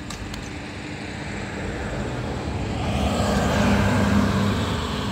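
A road vehicle passing by, its tyre and engine noise swelling to a peak about three and a half seconds in and easing off slightly afterwards.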